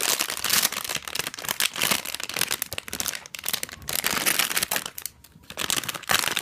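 Blind-bag plastic packaging being torn open and crumpled by hand: a continuous crinkling and rustling full of small sharp crackles, easing off briefly twice.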